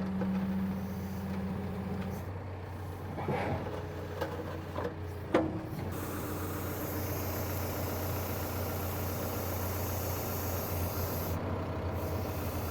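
2014 John Deere 310SK backhoe's diesel engine running steadily while the backhoe is worked, with a few metallic clanks between about three and five and a half seconds in. A steady hiss comes in about six seconds in and carries on.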